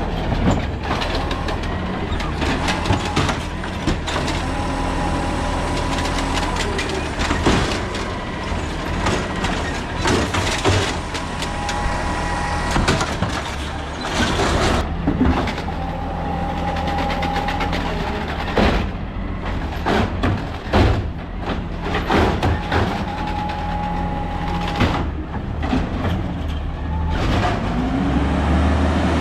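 Peterbilt 320 garbage truck with an Amrep Elliptical N2 front-loader body working, its diesel running steadily under repeated metal bangs and clatter. A hydraulic whine comes and goes in stretches of about two seconds, and near the end the engine revs up and back down.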